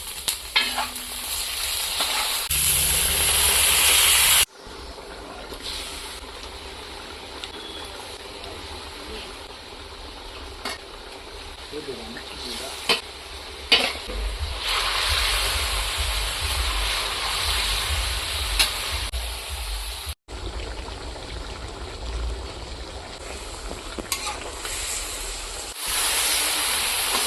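Food sizzling and frying in a pan while being stirred, with a few sharp clinks of a utensil. The sound breaks off abruptly several times between cuts.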